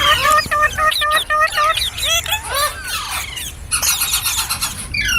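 Green parrot chirping: a quick run of short, repeated squeaky notes, about five a second, then sliding notes that rise and fall, and a harsh, noisy stretch near the end.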